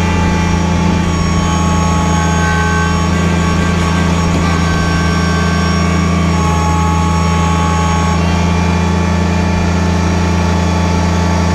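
Kubota BX25 compact tractor's diesel engine idling steadily on a test run after its dash repair.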